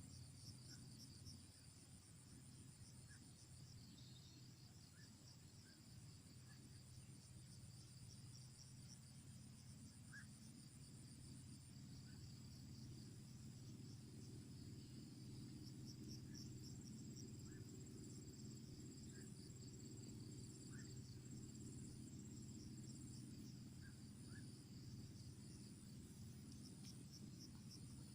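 Faint chorus of night insects, crickets trilling steadily in high, pulsing chirps over a low steady rumble, with a few short scattered chirps.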